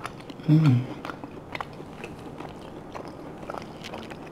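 A person chewing a bite of roast lamb close to a clip-on microphone, with small wet mouth clicks. A short hummed "mm" comes about half a second in.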